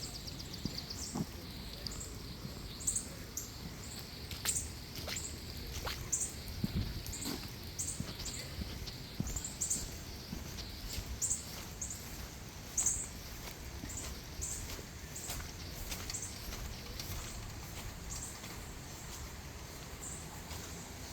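Small birds chirping outdoors: short, high chirps scattered irregularly throughout, over a faint steady outdoor background, with a few light clicks.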